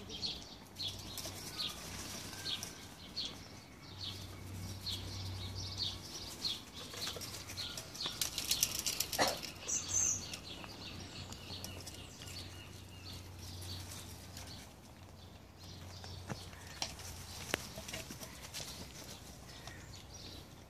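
A small bird chirping over and over, short high chirps about twice a second, fading out midway and returning near the end. Around the middle there is a spell of rustling through leaves and plants.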